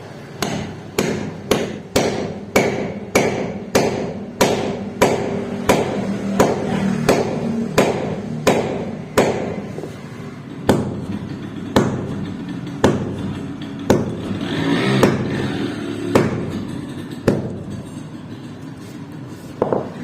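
Hammer blows striking in a steady run of about two strikes a second, slowing to about one strike a second from about ten seconds in.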